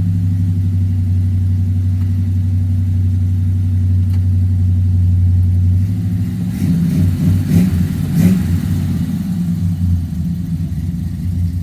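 Old Chevy pickup engine running on a cold start, steady at first. About six seconds in it turns rougher and louder for a few seconds, then settles back to a steady idle.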